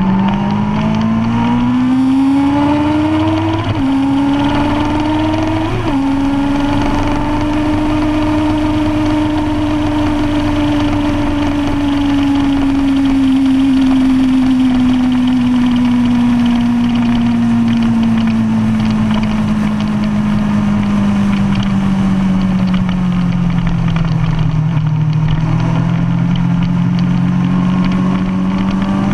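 2005 Kawasaki Ninja ZX-10R's inline-four engine through a DanMoto racing exhaust, pulling hard out of a corner with two quick upshifts in the first six seconds. It then holds high revs for several seconds before the pitch slowly falls away and starts climbing again near the end, with a steady rush of wind underneath.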